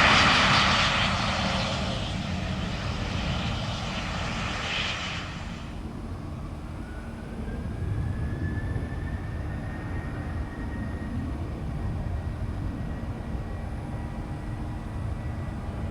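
Jet airliner engines heard from beside the runway during takeoffs: a loud engine noise fades away over the first five seconds, leaving a steady low rumble. A faint whine rises in pitch from about six seconds in and then holds steady.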